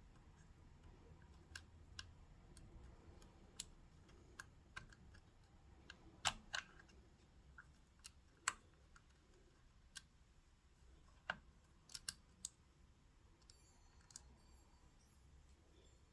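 Sparse light clicks and taps of a small screw and metal parts of a sewing machine being handled and fitted by hand, over near silence; the sharpest clicks come about six, eight and a half, and twelve seconds in.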